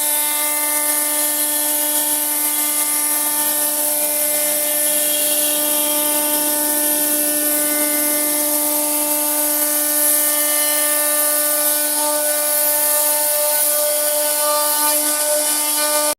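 Electric woodworking power tool running at a constant speed with a steady whine, cutting into wood.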